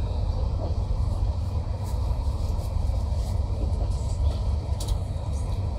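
Steady low rumble of a moving passenger train heard from inside the carriage, its wheels running on the track, with a few faint ticks.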